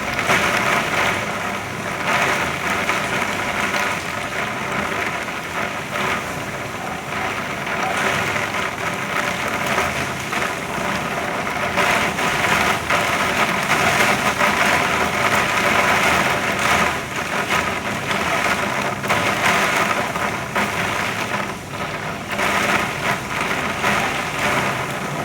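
Heavy rain falling: a steady, dense hiss of rain with many small pattering impacts.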